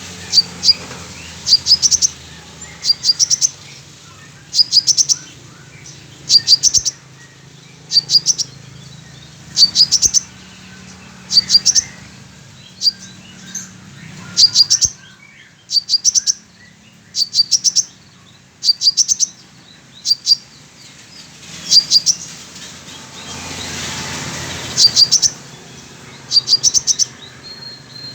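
Sunbird singing in short bursts of rapid, high chirps, repeated about every one and a half to two seconds. It is delivering the song of a female kolibri manggar it has learned. A steady hiss of rain sits behind it, swelling for a couple of seconds near the end.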